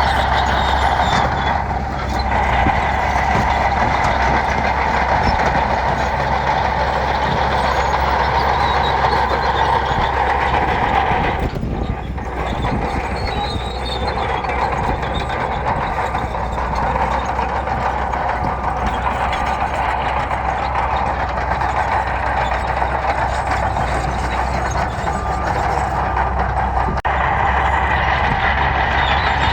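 Heavy diesel earthmoving machinery running steadily under load, with its engine easing briefly twice.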